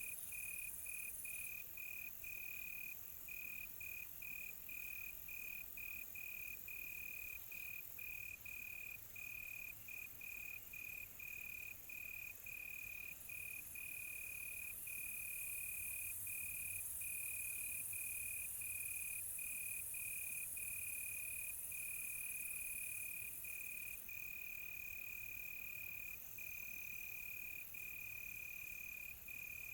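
Crickets trilling at night: one steady high trill broken by short gaps, about two a second at first and fewer later, over a steady high hiss.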